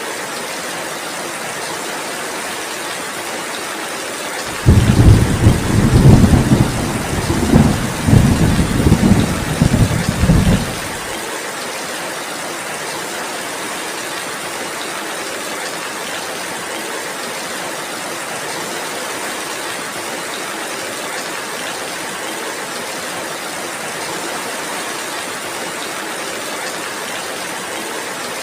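Steady heavy rain throughout, with a loud, deep rumble of thunder that starts suddenly about four and a half seconds in, rolls in several swells for about six seconds and then cuts off.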